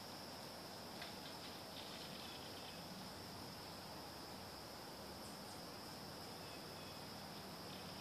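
Faint, brief calls from an unidentified bird, about one to three seconds in. They are heard over a steady, high-pitched insect drone.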